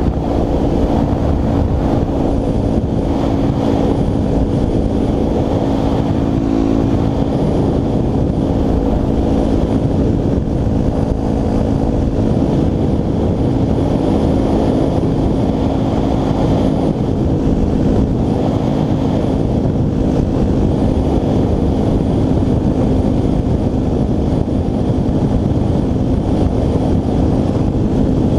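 Dirt bike engine running at a steady cruising pace, heard from the rider's helmet camera with wind rush over the microphone.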